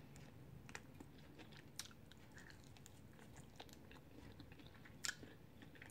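Faint chewing and biting on a chicken wing crusted in crushed Flamin' Hot Cheetos, with a few crisp mouth clicks and crunches; the clearest comes about five seconds in.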